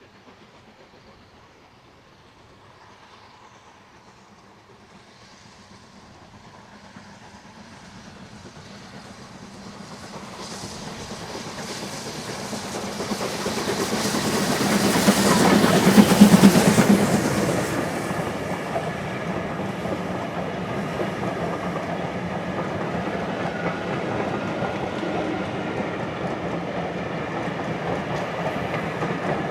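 Double-headed steam train approaching, growing louder until the locomotives pass close about halfway through, then a steady run of coaches rolling past with the clickety-clack of wheels over rail joints.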